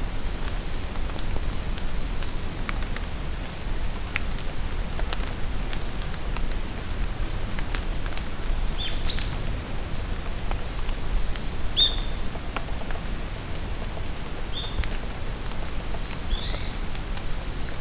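Rain falling steadily in a forest, with drops pattering and ticking, while small birds give short high chirps and twitters, most of them about halfway through and near the end.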